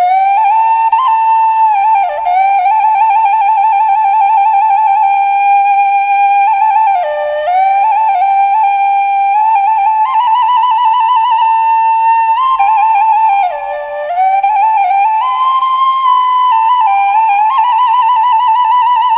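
Background music: a solo flute-like wind instrument plays a slow melody one note at a time, with long held notes and a wavering vibrato.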